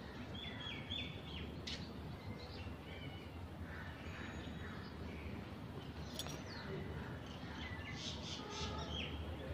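Birds chirping in short high calls, a few about a second in and a burst near the end, over a steady low outdoor background noise.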